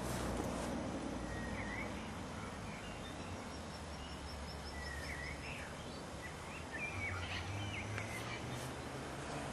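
Outdoor ambience of small birds calling: scattered short chirps and quick slurred notes in a few clusters, with a faint fast high trill about four seconds in. A low steady rumble runs underneath.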